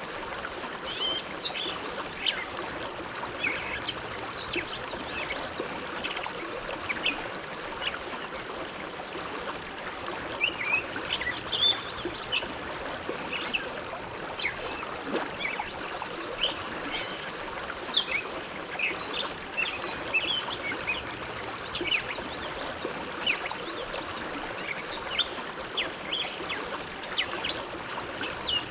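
Bow River flowing steadily past the bank, with a constant rush and many small, irregular gurgles and splashes of water.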